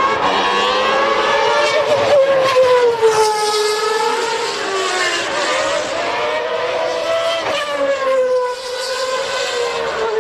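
Engine of a 1990 Formula One car on the formation lap, its high-pitched note rising and falling slowly twice as the car speeds up and eases off.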